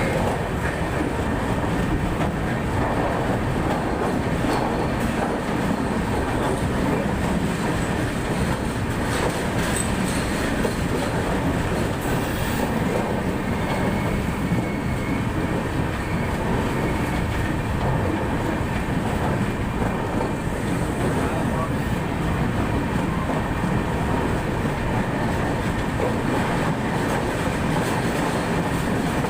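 Netravati Express passenger train running along the track, a steady, unbroken rumble of wheels and carriages.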